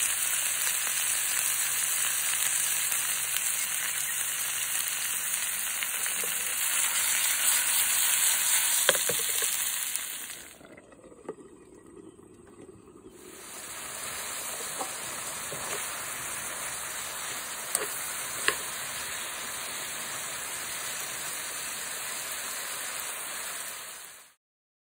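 Bamboo shoot strips sizzling in a pan: a steady, hissing fry with a few small clicks. It drops away for a few seconds about ten seconds in, resumes quieter and steadier, and cuts off just before the end.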